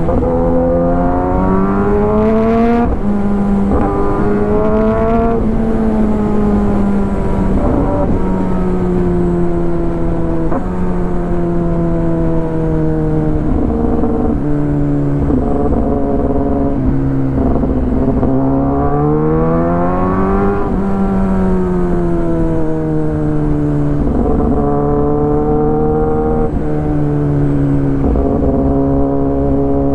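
Kawasaki ZX10R inline-four with an Arrow full exhaust system, riding under load. Its note rises and falls with the throttle, with several sudden steps in pitch at gear changes and one longer climb about two-thirds of the way through.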